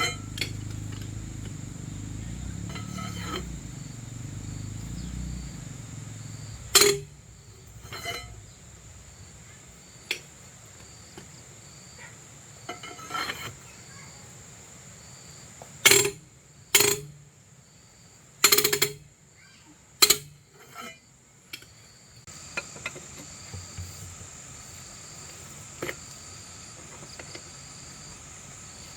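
Insects chirping steadily in a high, pulsing drone, with a low rumble for the first several seconds. About eight sharp metal clanks and knocks break in, clustered around the middle: tools and parts being handled during the excavator bearing repair.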